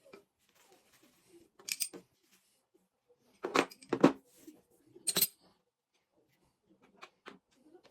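Short clicks and clinks of small reel parts and tools being handled while a Decathlon fishing reel is worked on: a handful of separate knocks, loudest in a cluster around the middle.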